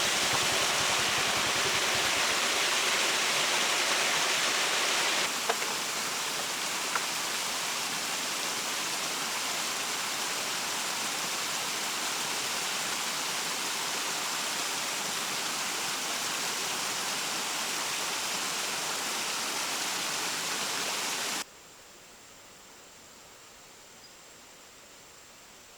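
Steady hissing, rushing noise with no rhythm or tone. It steps down a little in level about five seconds in and becomes much quieter near the end.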